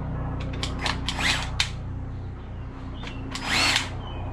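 Clicks and short plastic rattles from handling a Worx Hydroshot power cleaner, working its safety and its pressure-selector nozzle, over a steady low hum.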